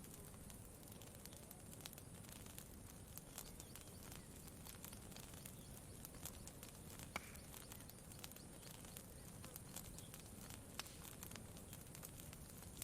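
Faint crackling of a wood campfire: scattered sharp pops and snaps at an irregular pace, with one louder snap about seven seconds in, over a low steady background noise.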